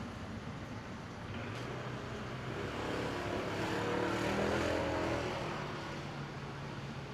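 A motor vehicle passes by. Its engine grows louder to a peak about four seconds in, then fades away over a steady background hiss.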